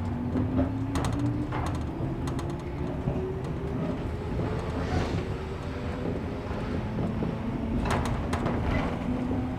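Interior running sound of a 113 Series 1500 resistance-control electric train: a low rumble under a thin motor-and-gear whine that rises slowly in pitch as the train gathers speed, with scattered clicks and knocks from the running gear.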